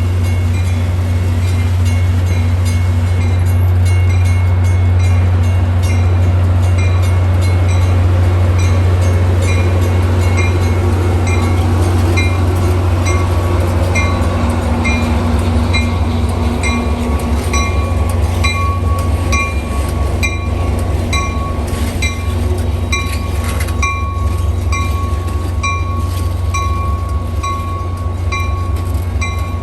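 A train rolling past with a steady low rumble and a regular click about once a second as wheels cross rail joints. A faint high ringing tone from the wheels grows stronger in the second half.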